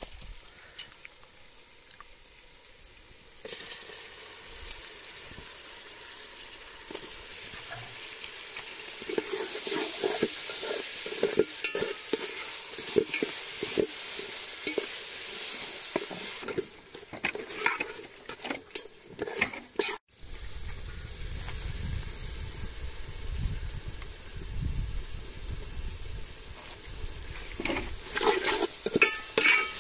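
Snail meat frying in a metal pot, with a steady sizzle that sets in a few seconds in and is loudest through the middle. A steel spoon scrapes and stirs against the pot throughout. After a cut about two-thirds of the way in, a low rumble runs underneath the stirring.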